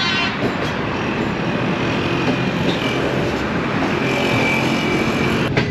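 Steady running noise of a moving passenger train, heard from on board, blended with road traffic on the highway below.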